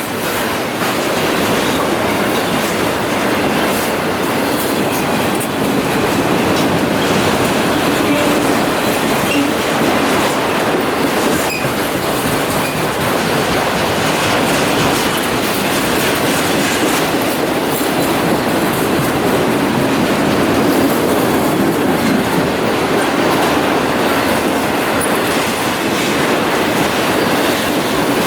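Freight train cars rolling past close by, a steady rumble with wheels clattering over the rail joints.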